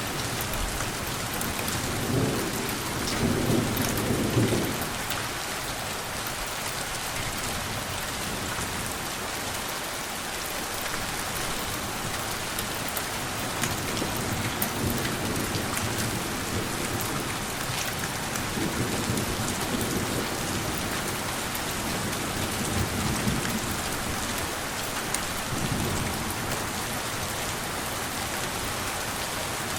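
Steady rain falling, with low rolls of thunder rumbling several times; the loudest roll comes about two to four seconds in.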